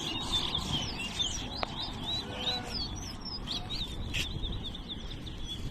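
Caged towa-towa (chestnut-bellied seed finch) singing in a bird race: a steady run of short, quick, high chirping notes.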